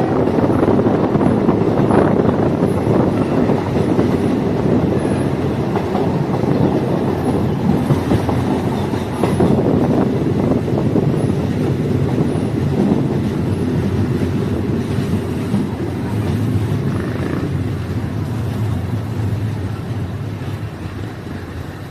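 Diesel multiple unit train running along the track, a steady rumble with wheels clicking over the rail joints. The noise gradually grows quieter near the end.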